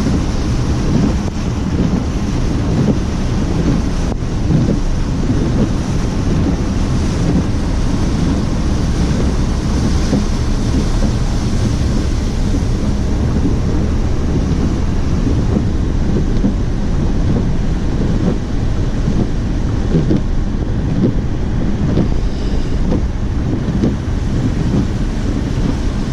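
Car driving through floodwater on a flooded road: a steady rush of water churning and splashing around the wheels and underbody, with wind buffeting the microphone.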